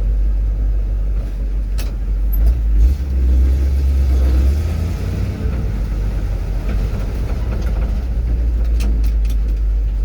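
Old truck's engine running with a steady low rumble, louder for a second or two about three seconds in.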